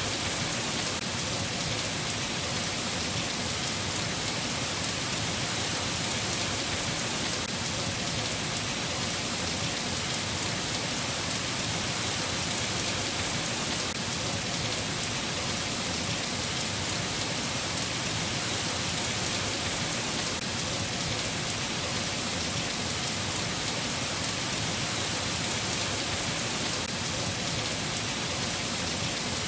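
Steady rain falling: an even hiss with a dense patter of drops, unchanging throughout, with no thunder.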